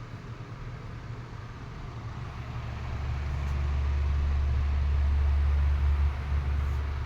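Tatung LA-9 9-inch table fan running on high speed, a steady rush of air over a low motor hum. About three seconds in a low rumble swells and grows much louder, then eases off near the end.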